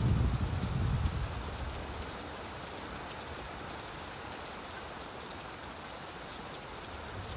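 Steady rainfall, an even hiss with fine scattered drop ticks. A low rumble dies away over the first couple of seconds.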